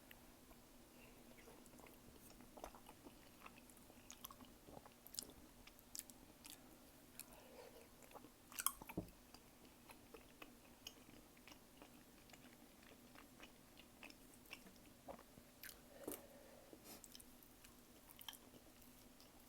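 Soft, close-miked chewing of a tteokbokki and gimbap meal: wet mouth sounds and small clicks, with one sharper, louder click a little under halfway through.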